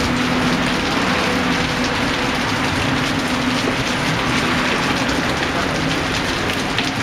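Steady rain falling, an even hiss with individual drops spattering, over a faint low steady hum.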